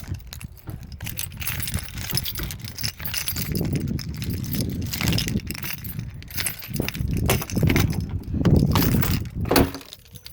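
Car keys jangling, with irregular clicks and knocks and heavy rumbling handling noise; one sharper knock comes near the end.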